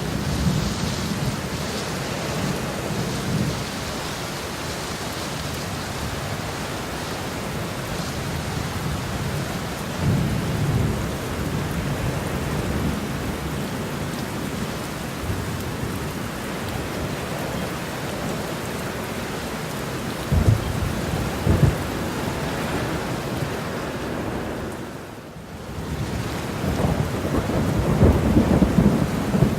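Thunderstorm: steady rain with thunder rumbling on and off. There are two sharp cracks about twenty seconds in and a louder, longer rumble near the end.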